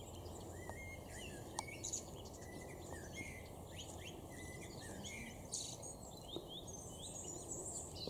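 Small songbirds singing faintly, with quick short chirps and trills scattered throughout, over a low steady background noise.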